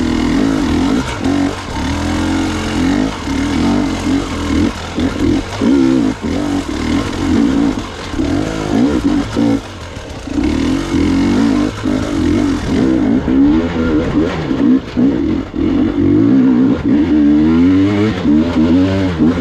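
Gas Gas EX 300 two-stroke dirt bike engine revving up and down over and over as it is ridden through technical trail, with occasional knocks.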